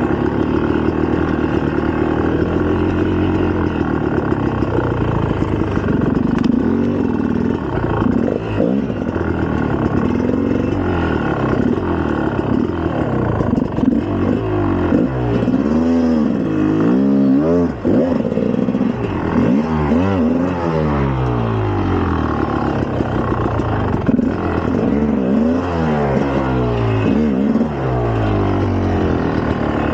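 2004 GasGas EC300's single-cylinder two-stroke engine under riding, its revs rising and falling again and again as the throttle is worked.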